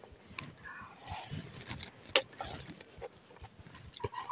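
Close-miked eating sounds: wet chewing and lip-smacking on noodles in irregular clicks, with one sharp click about two seconds in and a bite into a raw green garlic leaf near the end.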